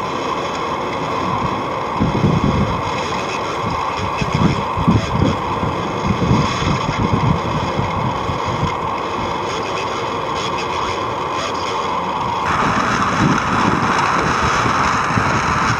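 Wind buffeting the microphone in uneven low gusts over a steady hiss, which changes abruptly about twelve seconds in.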